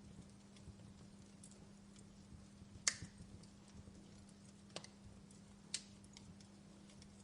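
Wood fire in a fireplace crackling softly, with scattered small ticks and three sharper pops, the loudest about three seconds in. A faint steady low hum runs underneath.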